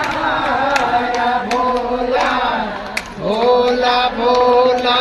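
Voices chanting in a sung melody, holding long notes and gliding between them, with a brief break about three seconds in.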